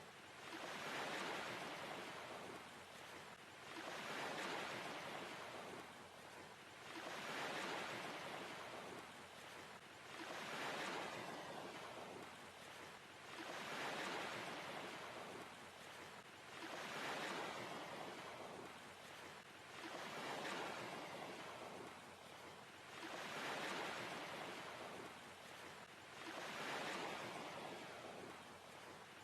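A rushing noise like surf, swelling and fading very regularly about every three seconds, as waves washing in one after another.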